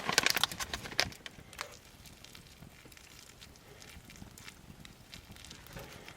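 Wood campfire crackling, with a quick run of sharp clicks and knocks in the first second, then sparse scattered crackles.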